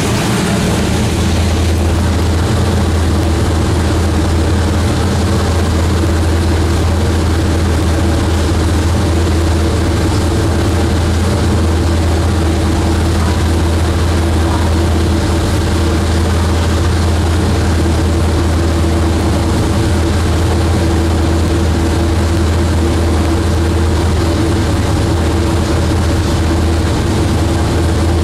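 Twin-turbocharged Pontiac Firebird engine idling steadily on its first start-up, with a deep, even note that does not change pitch.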